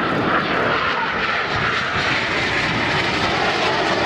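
Jet noise from Aermacchi MB-339 PAN aircraft with Rolls-Royce Viper turbojets, flying overhead as a steady, loud rushing sound. Its hissing band sinks slightly in pitch as they pass.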